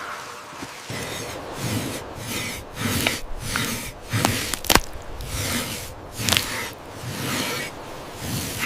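Rough rubbing or scraping strokes repeated about once a second, each with a dull low thump, and a few sharp clicks among them.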